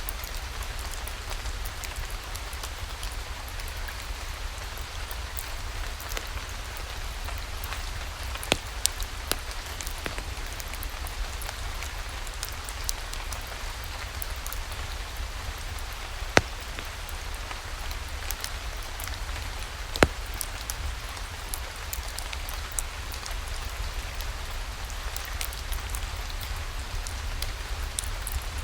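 Steady rain falling, an even hiss of drops, with a few sharp isolated clicks now and then.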